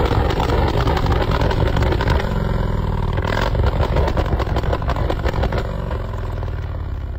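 V-twin cruiser motorcycle engine running loudly at raised revs, easing off a little near the end.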